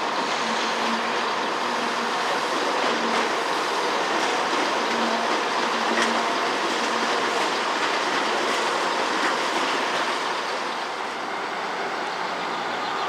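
A train running on the rails: a steady rumble with wheel-on-rail clatter and a few sharp clicks. It gets a little quieter after about eleven seconds.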